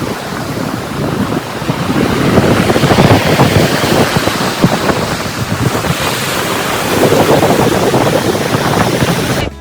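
Strong wind buffeting the microphone over the sound of waves, in uneven gusts, cut off suddenly near the end.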